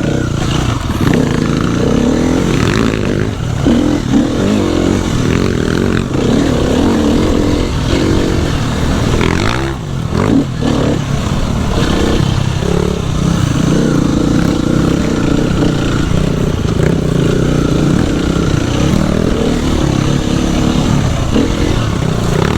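Dirt bike engine running loud while riding a trail, its revs rising and falling, with some clatter.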